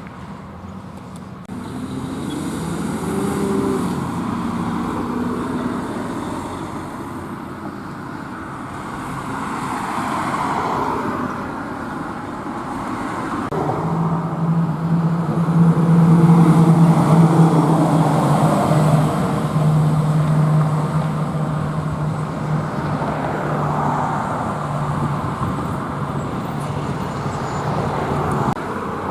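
Road traffic passing in a series of vehicles, each bringing a swell of tyre and engine noise. From about halfway through, a heavy engine's steady low drone sits under the passes and is loudest a few seconds after it starts.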